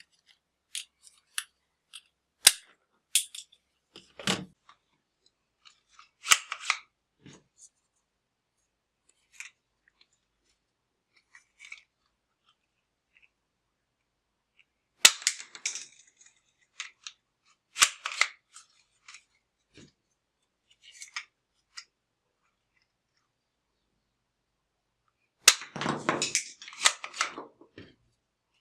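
Scattered sharp clicks, snaps and short crinkles of plastic toys and their packaging being handled, with a longer burst of rustling near the end.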